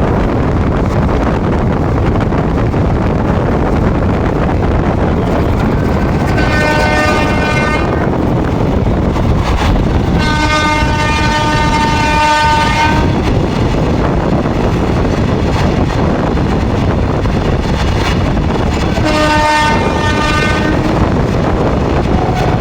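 Indian Railways trains running at speed, a steady loud rumble of wheels on track. A locomotive horn sounds three times: a blast about six seconds in, a longer one of about three seconds from ten seconds in, and a shorter one near the end. The last two fall in pitch as they end.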